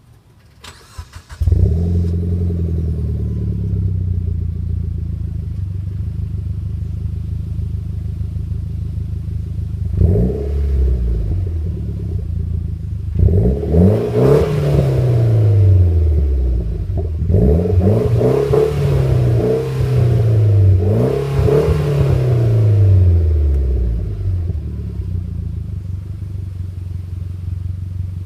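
Mitsubishi Lancer Evolution X's turbocharged 2.0-litre four-cylinder running through a racing exhaust with a mini muffler: brief cranking, then it catches and idles. It is blipped once about ten seconds in, then revved repeatedly, each rev rising and falling, from about thirteen to twenty-four seconds, before settling back to idle.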